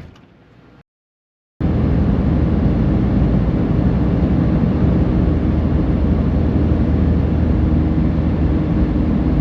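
A single sharp bang right at the start, like a vehicle door shutting, then after a short cut a steady low drone of engine and road noise heard inside the cab of a 2022 RAM 3500 diesel pickup driving along.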